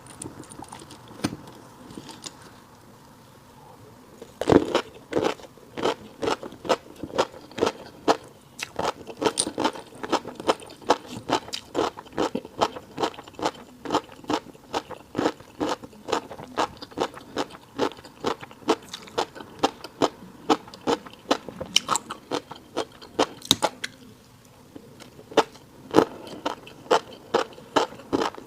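Close-miked eating of a fish roe rice bowl: chewing that sounds as a rapid run of sharp clicks, several a second, beginning about four seconds in.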